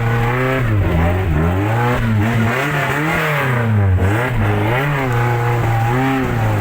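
A motor vehicle engine revving up and down over and over, its pitch rising and falling about once a second.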